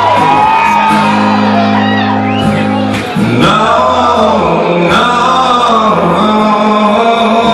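Live rock music: a male singer holding long, wavering notes over guitar accompaniment.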